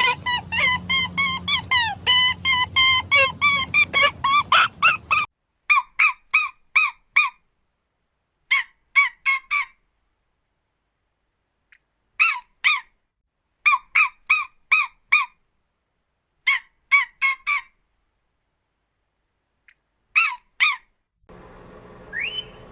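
Farm waterfowl honking: a fast run of short, downward-bending calls for about five seconds, then calls in groups of two to five with silent gaps between. Near the end a steady low hum comes in with one short rising whistle.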